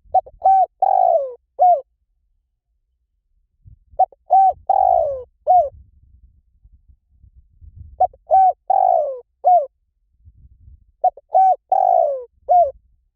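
Spotted dove cooing: four repeated phrases about four seconds apart, each two short coos, a longer falling coo and a short closing coo.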